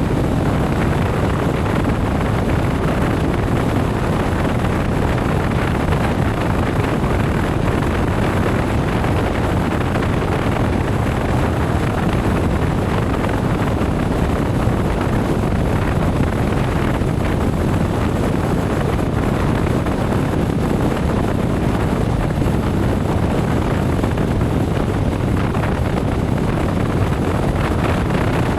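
Steady wind noise on the microphone of a moving motorcycle: an even, unbroken rush that stays level throughout.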